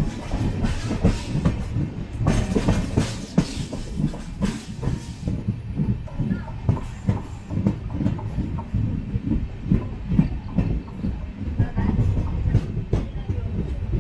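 Express train running on the track, wheels knocking and clattering over rail joints above a steady low rumble, with a hiss rising over it for a few seconds about two seconds in.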